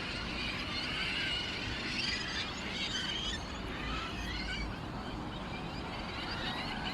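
Small songbirds chirping and twittering in a busy chorus of overlapping high calls, over a low steady rumble.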